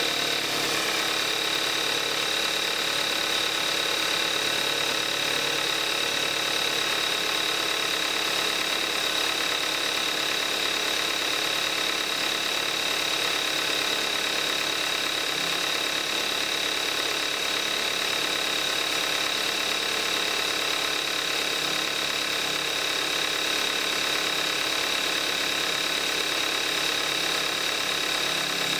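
2014 Kia Forte5's 2.0 GDI direct-injection four-cylinder engine idling steadily about a minute and a half after a cold start, at 41,000 miles on 5W-30 synthetic oil.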